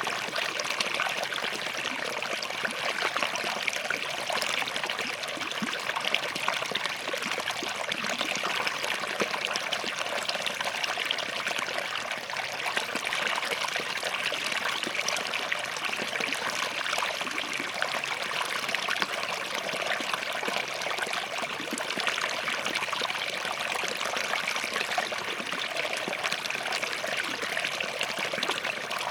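Small forest stream running over and between rocks, a steady trickling and splashing flow with no pauses.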